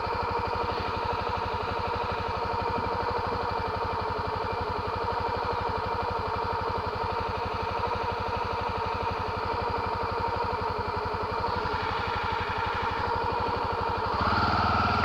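Honda XR250 Tornado's air-cooled single-cylinder four-stroke engine idling steadily. It gets a little louder and changes pitch near the end.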